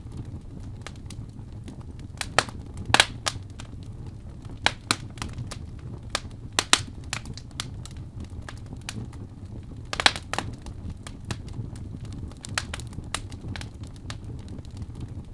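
Wood fire burning in a fireplace, crackling and popping at irregular intervals over a low steady rumble of flames, with a few louder pops.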